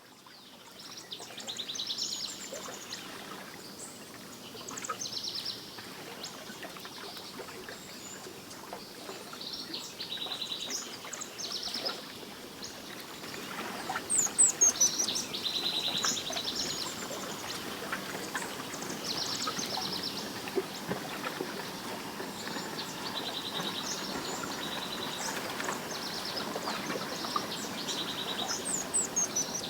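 Several songbirds singing: repeated short, rapid trills and chirps, loudest about halfway through, over a steady outdoor background hiss.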